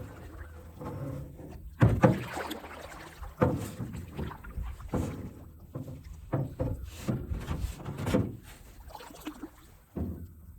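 Canoe paddling: irregular paddle strokes in the water and knocks of the paddle against the canoe, roughly every second or so, the loudest about two seconds in.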